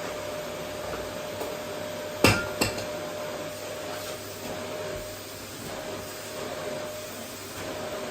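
Vacuum cleaner running steadily with a faint motor whine. A little over two seconds in come two sharp knocks, a third of a second apart.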